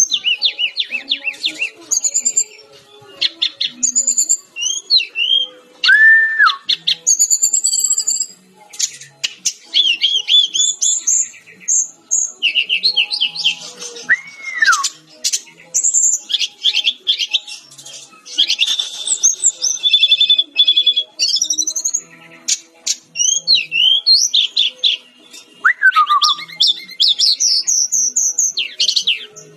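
Fulvous-chested jungle flycatcher (sikatan-rimba dada-coklat) singing almost without a break: fast, varied phrases of trills, chattering notes and rising and falling whistles, with a few lower down-slurred whistles.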